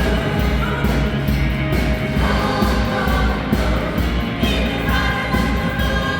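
A choir singing a pop-rock song with band backing and a steady drum beat.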